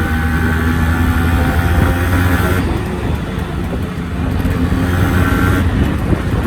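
Two-stroke Yamaha RX-series motorcycle engine running steadily.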